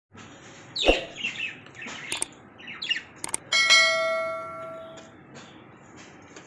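Lovebirds giving several short chirps, with a couple of sharp clicks. About three and a half seconds in, a bell-like metallic ring sounds and fades away over about a second and a half.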